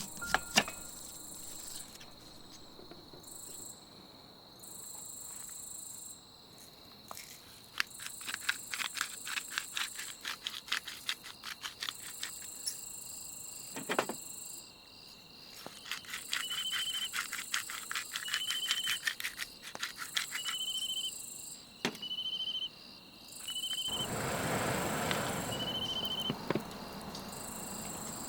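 Insects singing, crickets or similar: a steady high trill with a higher pulsing chorus that comes and goes. A run of rapid clicks comes about a third of the way in, and a broad hiss rises near the end.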